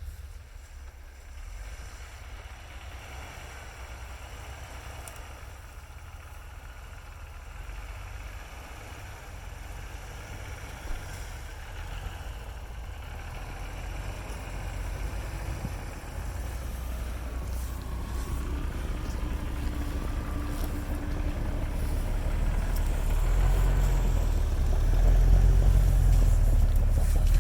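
Off-road Jeep's engine running at low speed while crawling along the trail, a low rumble that grows steadily louder, strongest near the end.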